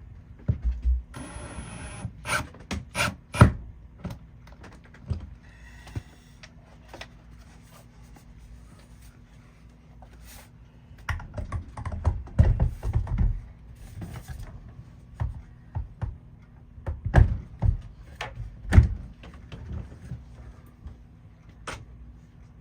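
Irregular knocks, clicks and thumps of a soundbar being screwed into its mounting, the heaviest knocks about three seconds in and twice near the end. A brief steady whirring lasts about a second near the start.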